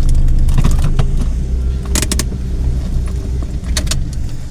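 Car running on the road, heard from inside the cabin as a steady low rumble, with a few short rattles about one, two and four seconds in.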